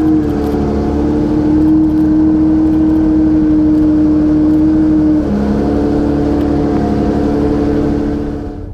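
Yamaha OX99-11's F1-derived V12 engine running at a steady high note. About five seconds in its pitch steps down, and the sound cuts off sharply near the end.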